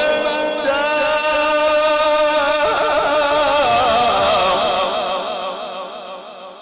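A male Quran reciter's voice holds a long, ornamented note with a wavering vibrato in the melodic tajweed style. The note fades out over the last two seconds.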